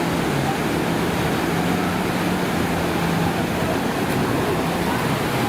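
A steady engine hum that drops slightly in pitch a little past halfway, over the continuous wash of surf on a beach.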